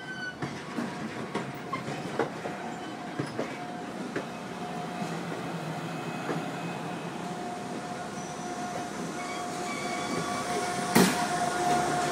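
Virginia Railway Express commuter train's bilevel passenger cars rolling slowly past at close range, wheels clicking irregularly over the rail joints. A steady whine underneath grows louder toward the end, with one sharp clack about eleven seconds in.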